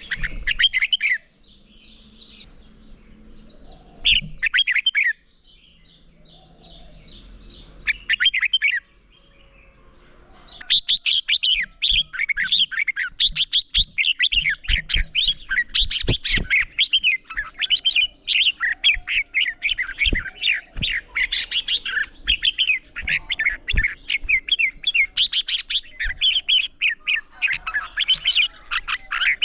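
Red-whiskered bulbuls singing competitive 'fighting song': a few short phrases in the first nine seconds, then from about ten seconds in a dense, unbroken stream of rapid, high notes.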